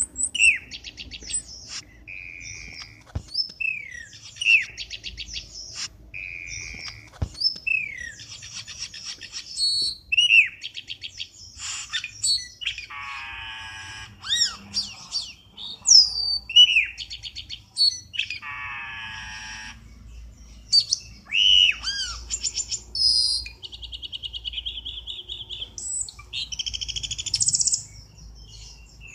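Cucak keling bird song: a continuous varied run of short whistled chirps, quick trills and a few harsh buzzy notes, with brief pauses between phrases.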